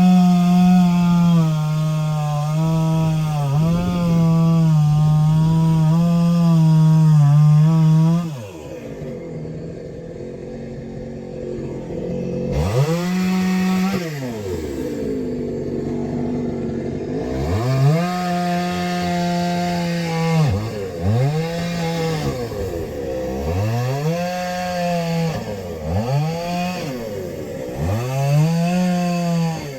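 Two-stroke chainsaw cutting logs for firewood: it runs at steady high revs for about eight seconds, drops off, then is revved up and down again and again in short surges.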